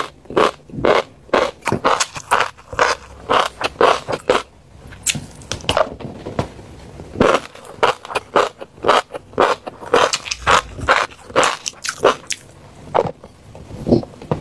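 Close-miked eating of fish roe: short, sharp pops and clicks in quick irregular succession as the eggs are bitten and chewed, with brief pauses about four seconds in and near the end.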